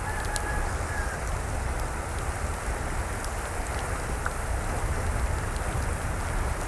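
Steady rush of water with a deep low rumble, dotted with small scattered ticks, and a brief faint whistle just after the start.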